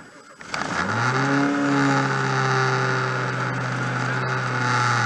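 Rally car engine heard from inside the bare, caged cabin, starting up about half a second in. It rises in pitch for about a second, then runs at a steady fast idle.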